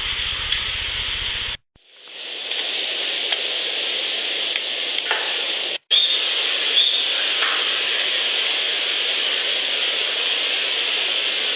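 Steady hiss of a portable audio recorder's noise floor, with a few faint knocks, cut from separate recordings with two brief dropouts between clips. The recordist takes the knocks for Sasquatch knocks, though some may be rock clacks.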